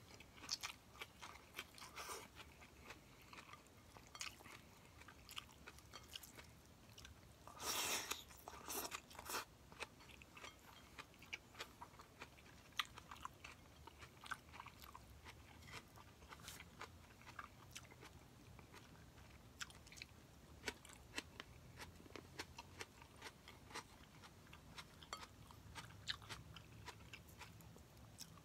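Faint close-up sounds of a person eating a meal of roast chicken, greens and rice by hand: chewing and mouth clicks, with many short, sharp ticks scattered irregularly. A louder cluster of bursts comes about eight seconds in.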